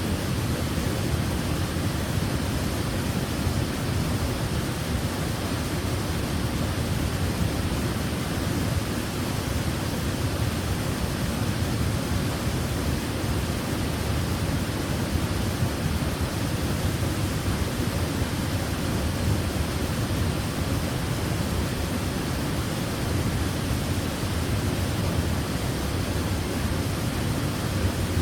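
Waterfall: water falling and splashing in a steady, unbroken rush, heaviest in the low range.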